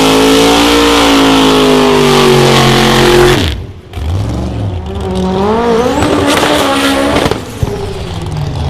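A 1973 Chevy C10 drag pickup's 588 cubic-inch big-block V8 runs flat out down the strip, loud and steady, with its note sagging slightly. The sound cuts off abruptly about three and a half seconds in. Quieter engine revs then climb in pitch in steps before easing off near the end.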